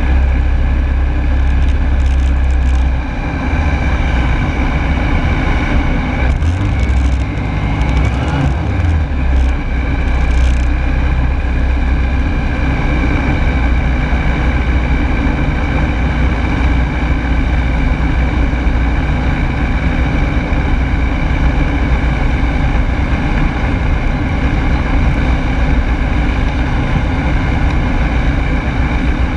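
The Rotax 912S four-cylinder engine and propeller of a Rans Coyote S6 ultralight running steadily in flight, heard from on board as a loud, even drone.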